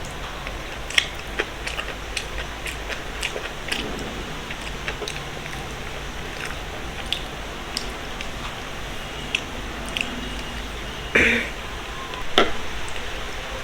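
Close-miked eating: chewing and wet mouth sounds with many small scattered clicks, and two louder, short sounds near the end.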